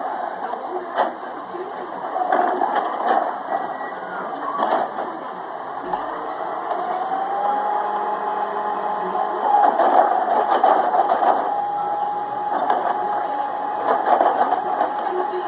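Freightliner M2 garbage truck with a Heil rear loader working: engine running with scattered clanks, and a steady whine that rises about six seconds in and then holds.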